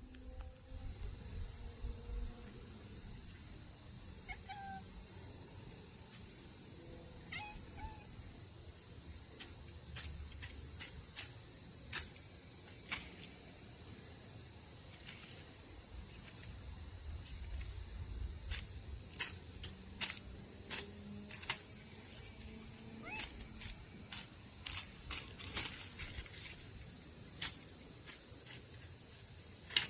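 Dry cornhusk crackling in sharp snaps as a cat pounces on it and bites it, with a few short squeaks from the cat. Crickets chirp steadily behind.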